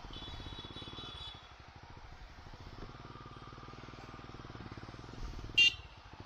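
Motorcycle engine running with a steady, even pulsing, and a brief loud high-pitched beep near the end.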